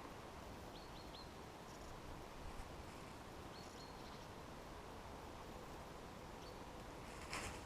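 Quiet forest ambience with a small bird calling, each call a quick run of three high chirps, heard twice and then once more faintly. Crunching rustles, like steps on the forest floor, begin near the end.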